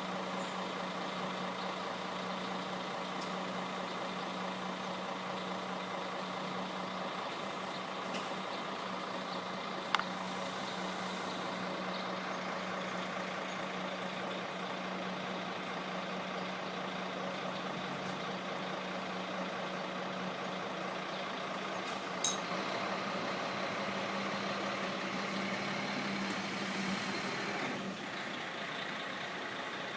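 Diesel coach engine idling steadily, left running instead of being switched off. Two brief sharp clicks stand out, one about a third of the way in and one about two-thirds in.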